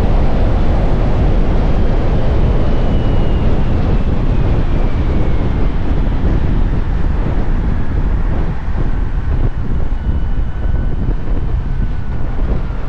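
Wind rushing over the camera microphone on a moving motorcycle, a loud steady rumble, with a faint high whine that slowly falls in pitch.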